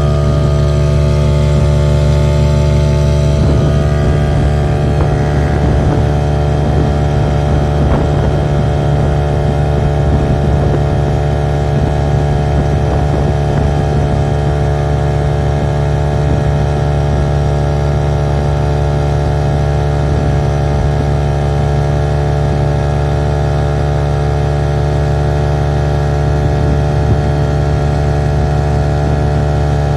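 An engine running steadily at an even pitch, with a constant low hum; a higher tone drops out about four seconds in.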